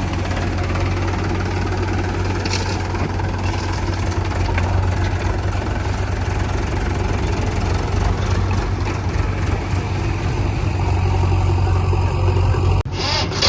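Heavy diesel engine running steadily with a deep hum, as a backhoe loader loads a tractor, broken by a brief dropout near the end.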